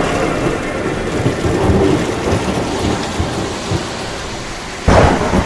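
Steady heavy rain with rolling thunder, and a sudden loud thunderclap near the end.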